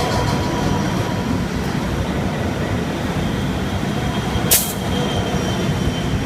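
Freight train hauled by 82 class diesel locomotives passing through a station, a steady loud rumble of the train on the rails. A single sharp clack sounds about four and a half seconds in.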